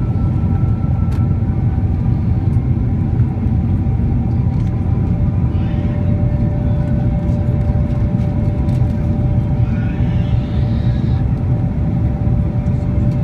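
Boeing 767-300 cabin noise in flight: a steady low rumble of the jet engines and airflow, with a few faint steady whining tones above it, one more joining about five seconds in.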